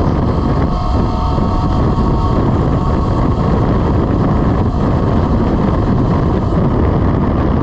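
Wind rushing over the microphone while riding a Velimotors VMX12-F electric motorcycle at speed, a steady loud roar, with a faint steady whine during the first few seconds.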